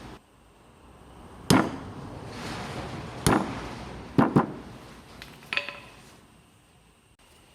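Sharp knocks on metal, about five strikes spread over several seconds with a quick double near the middle; the last one rings briefly like struck steel.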